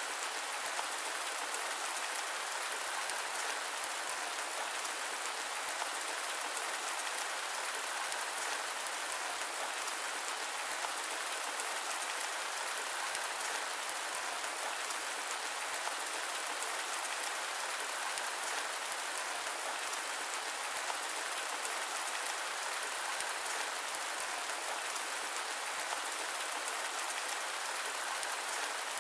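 Steady rain mixed with white noise: an even, unbroken hiss of many small drops, with no thunder.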